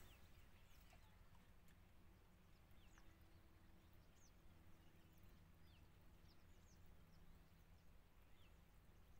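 Near silence: faint, short, high chirps of small birds, scattered irregularly, over a steady low background rumble.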